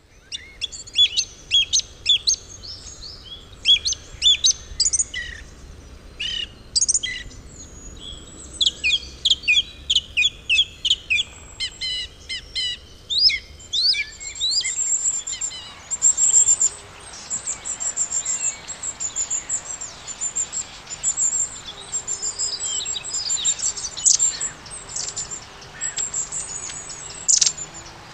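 Birdsong: many short chirps and quick sweeping calls from several birds. About halfway through, a very high, thin note starts repeating rapidly.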